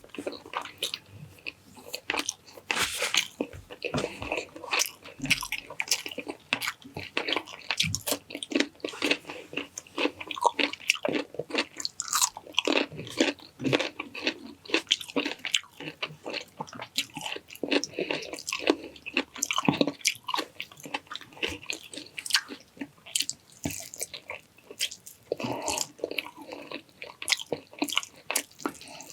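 Close-miked eating: wet chewing and lip smacking, with irregular crunchy bites of pickled vegetables or cucumber and the odd clink of cutlery.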